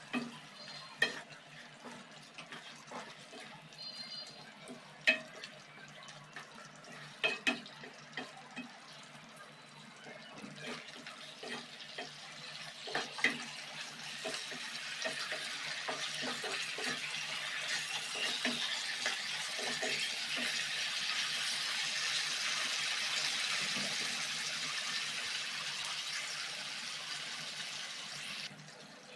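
Metal cooking utensils clinking and knocking against a pan. Then a steady hiss rises from about a third of the way in, grows louder, and cuts off sharply just before the end.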